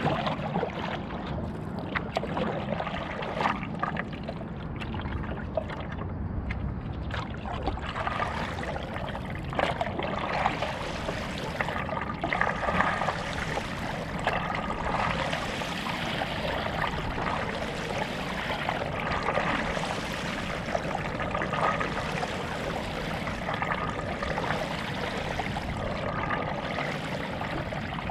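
Stand-up paddleboard paddle dipping and pulling through lake water, stroke after stroke, with splashes and water trickling off the blade.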